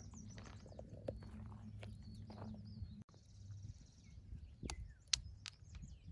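A dog growling low and steady at something hidden in the rocks, with small birds chirping. A few sharp clicks come near the end.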